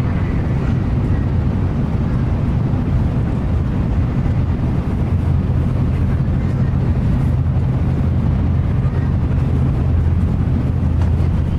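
Shinkansen high-speed train running at speed, heard from inside the passenger cabin: a steady low rumble with an even rushing noise over it.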